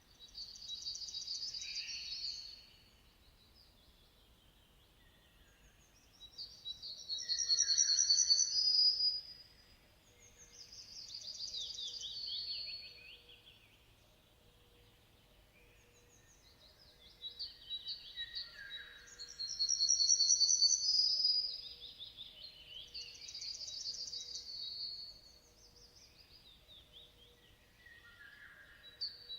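Songbird song: about six phrases of high trills and chirps, each two to three seconds long, with short pauses between them.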